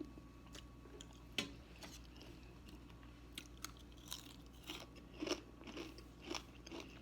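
A person chewing and biting food close to the microphone: irregular wet mouth clicks and crunches, the sharpest about a second and a half in.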